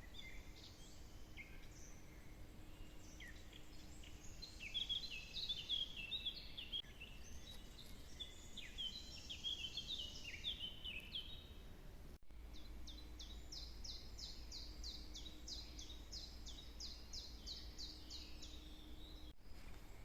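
Small songbirds singing in a forest: a rapid, jumbled song of high chirps, then, after a cut about twelve seconds in, one bird repeating the same short high falling note about three times a second, over a faint low rumble.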